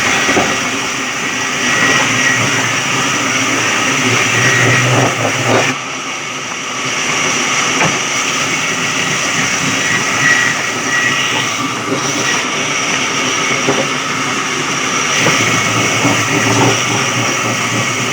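Electric sawmill running as it saws a log: a loud, steady mechanical din with a high whine. It dips briefly about six seconds in.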